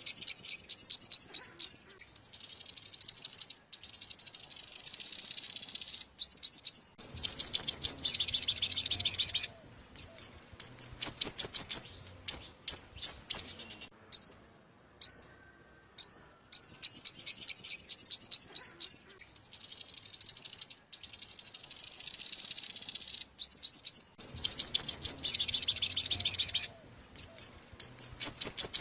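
Recorded song of the 'five-coloured' sunbird (hút mật 5 màu): fast series of high, thin down-slurred notes and trills in phrases with short pauses. The same sequence repeats about every 14 seconds, a looped lure recording.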